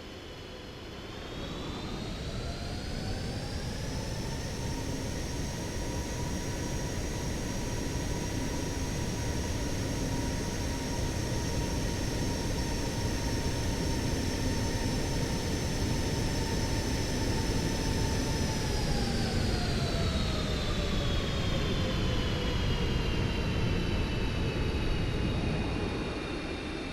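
Jet airliner engines running with a loud whine over a rumble. The whine climbs in pitch as the sound swells in the first few seconds, holds steady, then slides down in pitch after about twenty seconds.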